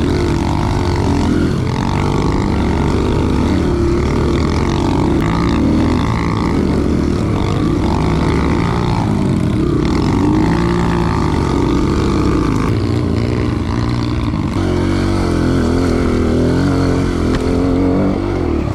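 Dirt bike engine running as the bike is ridden, its pitch rising and falling with the throttle.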